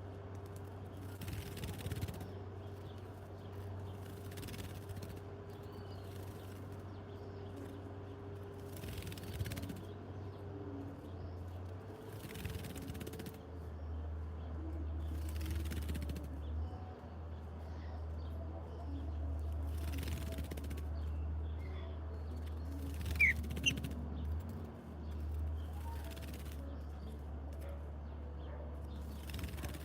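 Birds: a short high chirp about two thirds of the way through and faint rustles like wing flutters, over a steady low hum.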